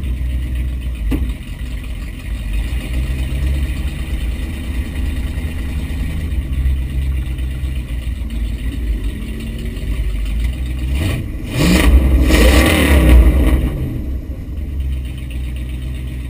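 V8 Jeep mud racer's engine running at idle, heard from inside the cabin, revved up hard once for about two seconds a little past the middle before dropping back to idle.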